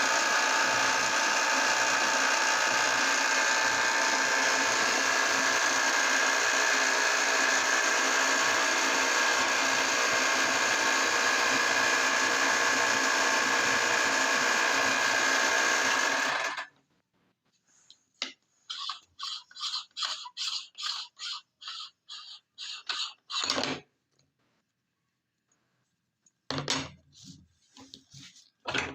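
Electric meat grinder motor running steadily, then switched off abruptly about two-thirds of the way through. After a pause comes a quick run of short scraping sounds, about three a second, and a few more near the end.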